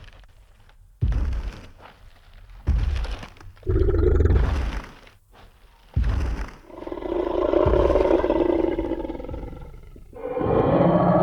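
Tyrannosaurus rex sound effect: four heavy, booming footsteps over the first six seconds, then a long, deep roar, and a second roar starting near the end.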